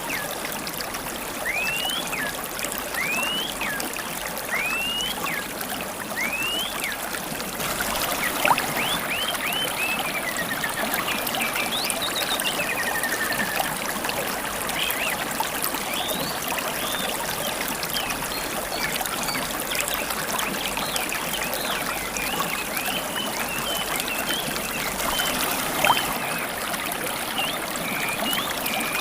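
River water trickling and babbling steadily, with wild birds calling over it: first a series of short rising whistles, about one a second, then a busier mix of many chirps from about eight seconds in.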